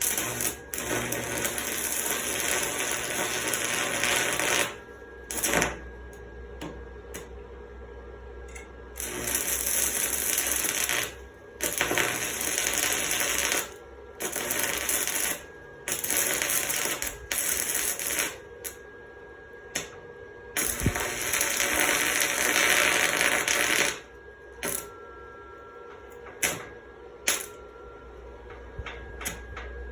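Stick welding arc crackling from a 75-amp Mastercraft welder burning a 3/32-inch 6011 rod. It comes in several runs of one to five seconds each, with short breaks between.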